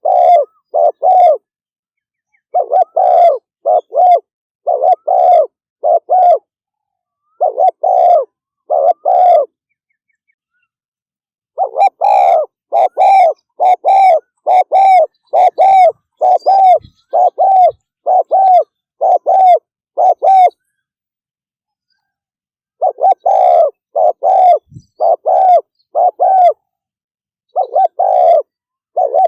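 Spotted dove giving its rapid 'thúc gù' coo: short coo notes in quick pairs and triplets, with a long unbroken run of about fifteen notes in the middle. Breaks of one to two seconds separate the groups.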